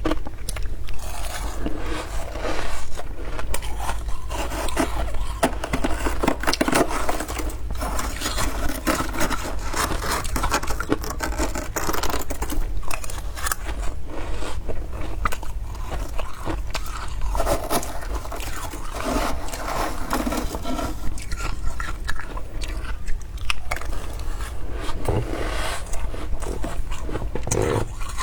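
Deep-freezer frost being scraped and crunched: a dense, continuous run of crackling scrapes and crunches.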